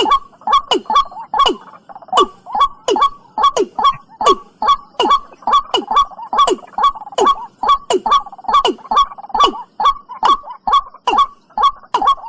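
Watercock calls: a fast, even series of notes, each dropping sharply in pitch, about two to three a second. This is a recorded lure call used to draw the birds in for trapping.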